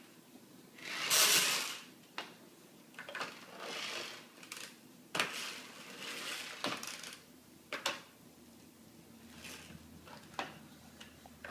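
Handling noises from a toy being played with: scattered sharp clicks and light knocks, with several bursts of rustling hiss, the loudest about a second in.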